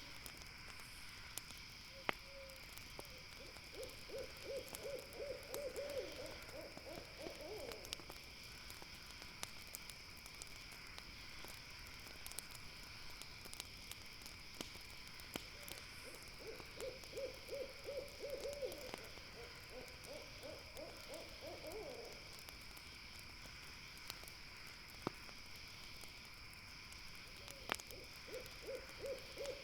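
An owl calling in rapid trills of low hoots, three series of several seconds each, over a steady high-pitched drone and a few sharp campfire pops.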